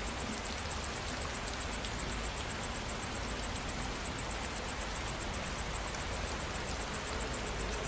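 Steady rain falling, with an insect calling in a rapid, even train of high-pitched pulses.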